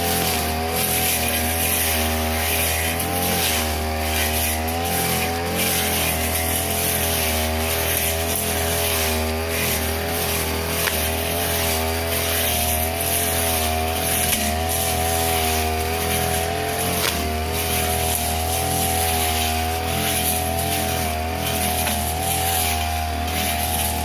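Two-stroke brush cutter engine running steadily at working speed, its pitch wavering slightly up and down as it cuts grass.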